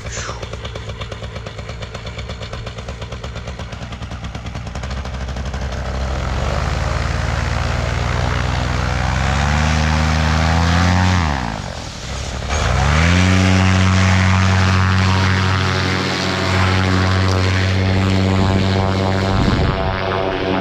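Paramotor engine and propeller running at low throttle, then revved up over several seconds. About halfway through the revs drop sharply and climb straight back, and the engine then holds steady at high power.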